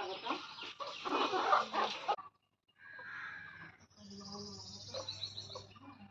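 Birds calling in two stretches, broken by a short gap about two seconds in, with high chirps in the second stretch.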